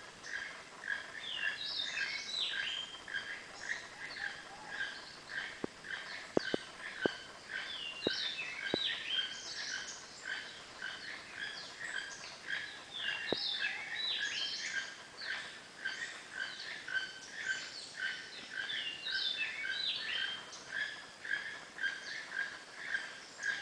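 Rainforest bird chorus: many birds calling at once with dense, overlapping short chirps and whistles. A handful of soft ticks come between about six and nine seconds in, and once more a little later.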